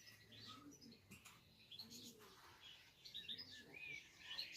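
Faint birdsong: small birds chirping in short, high, scattered calls.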